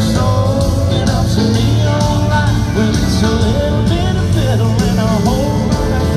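Live country band music played loud and steady on a festival stage, full band with a steady beat under a melody line that slides and bends in pitch.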